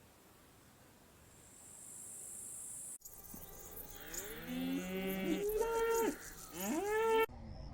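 Cattle mooing: several overlapping calls that rise and fall in pitch, following a faint high hiss that cuts off abruptly about three seconds in.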